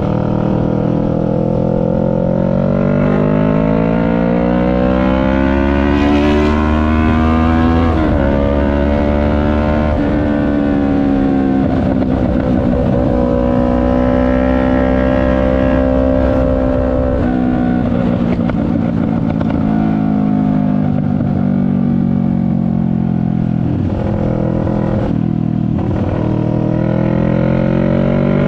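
CFMoto 400NK's parallel-twin engine under way, its pitch rising under acceleration and dropping abruptly about eight seconds in and again shortly after as gears are changed. It then holds steady, eases off and picks up again near the end, with wind noise over the helmet-mounted microphone.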